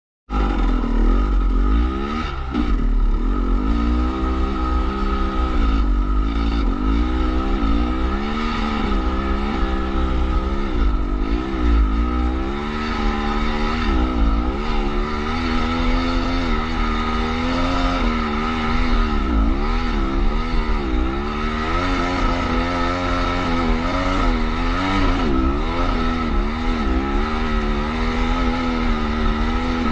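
KTM 250 EXC two-stroke enduro motorcycle engine being ridden, its pitch rising and falling again and again as the throttle is opened and closed.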